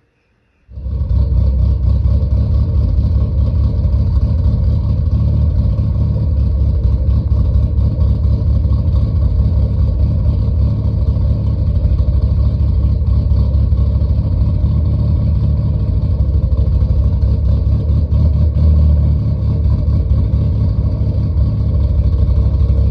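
2005 Mitsubishi Lancer Evolution VIII's turbocharged four-cylinder running through a Buschurs 3-inch catback exhaust with a large Magnaflow muffler: a loud, steady low exhaust note that cuts in abruptly about a second in and holds fairly even throughout.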